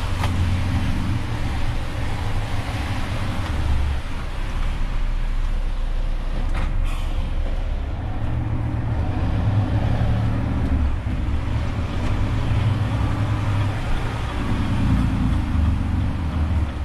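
Renault truck's diesel engine running, a steady low drone whose pitch shifts up and down, with a brief click near the start and another about seven seconds in.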